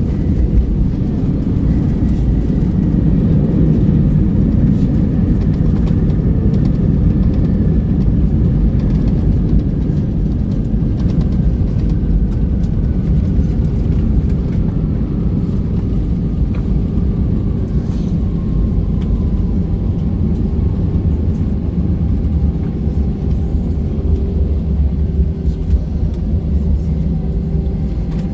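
Airbus A321 cabin noise: a steady low jet rumble with an engine whine that slowly falls in pitch, the engines spooling down as the aircraft slows on arrival.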